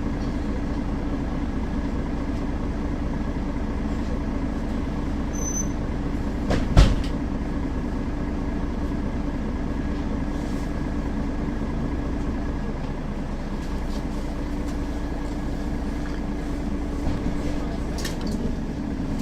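Mercedes-Benz Citaro facelift city bus driving between stops, heard from inside: a steady engine drone and rolling rumble. There is a short high beep about five seconds in and a sharp thump just after, the loudest sound here.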